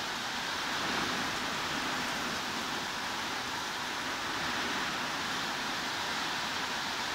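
Steady heavy rain, an even unbroken hiss strongest in the upper-middle range, with no separate drops or gusts standing out.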